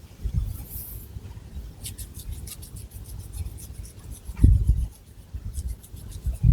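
Long fingernails scratching through thick hair against the scalp: runs of quick, short scratchy strokes over dull low rubbing, with a louder dull thump about four and a half seconds in.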